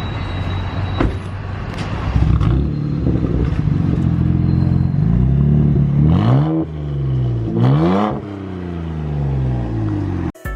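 BMW 135i's N54 twin-turbo straight-six accelerating hard. Its pitch climbs, drops sharply at a gear change about six and a half seconds in, and climbs again. It then falls away as the car eases off.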